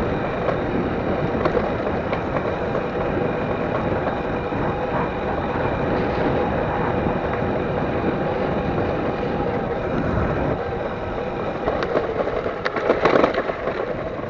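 Electric dirt bike ridden hard on a dirt track: a steady rush of wind and tyre noise with a faint motor whine, and a burst of rattling knocks near the end.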